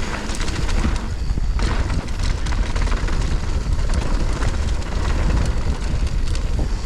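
Mountain bike riding fast down a dirt trail: wind buffeting the microphone over the rumble of the tyres, with scattered clicks and knocks from the bike over rough ground.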